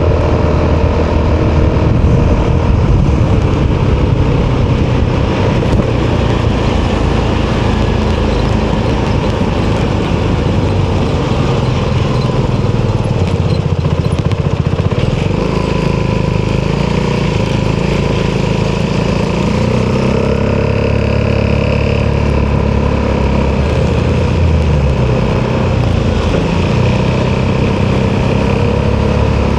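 Italjet Dragster 200's single-cylinder four-stroke engine running through an Akrapovic exhaust, its pitch shifting up and down as engine speed changes.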